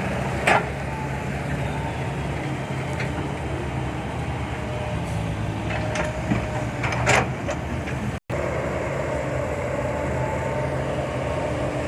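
Diesel engine of a Hino Mega 500 dump truck running steadily, with a few short knocks over it.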